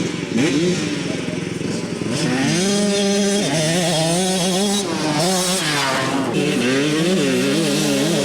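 Motocross motorcycle engines running at speed, the engine note rising and falling repeatedly as the throttle opens and closes.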